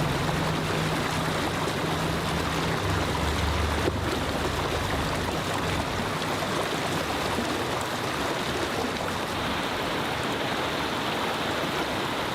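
Steady rush of flowing water, with a low hum beneath it for the first few seconds.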